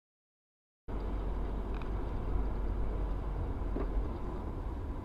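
Silence, then about a second in a steady low rumble of a car's engine and tyres on the road starts abruptly, as heard from a moving car.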